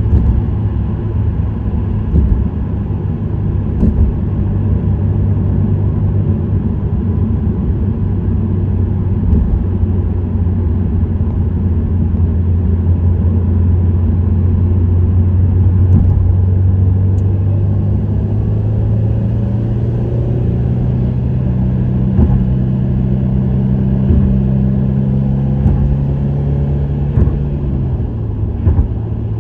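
Subaru WRX STI's turbocharged flat-four engine running through an STI Performance muffler at steady cruising revs, with a low, steady exhaust tone. About two-thirds through the revs rise gently, then drop near the end.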